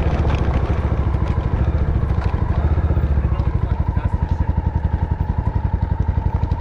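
Honda XR650L's single-cylinder four-stroke engine running steadily, its firing pulses coming in a quick, even beat.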